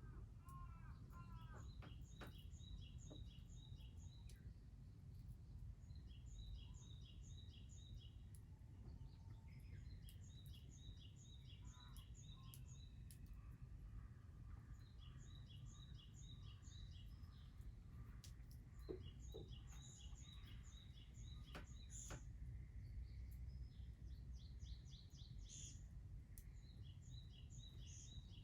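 A songbird singing faintly: short phrases of several quick high notes, repeated every few seconds, over a steady low background rumble.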